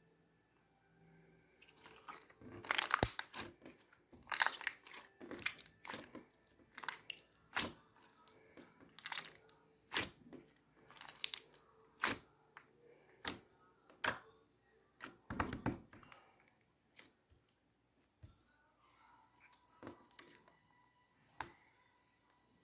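Clear slime being squeezed and stretched by hand, giving sharp wet pops and clicks about once a second, fainter and sparser in the last few seconds.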